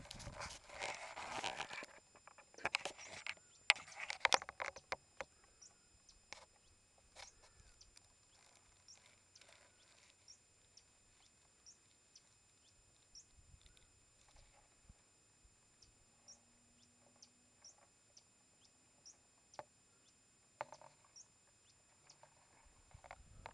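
Rustling and handling noise for the first few seconds, then a bird giving one short, high, rising chirp about once a second, over faint ticks and clicks.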